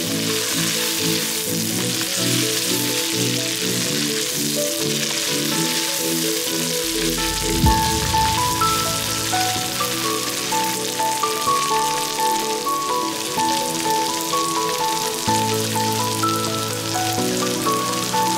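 Pork, garlic and bell peppers sizzling in hot oil in a frying pan as they are stir-fried, a steady hiss under background music with a plucked melody. One sharp thump about eight seconds in.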